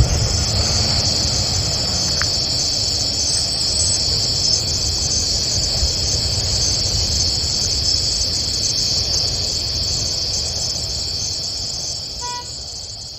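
Steady, high-pitched chorus of insects over a low rumble, fading away near the end.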